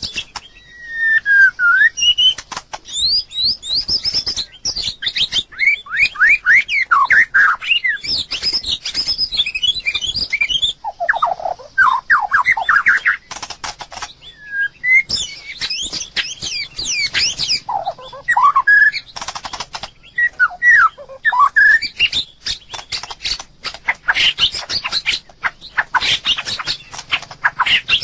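White-rumped shama singing: quick, varied phrases of rising and falling whistles and trills, with many sharp clicks mixed in.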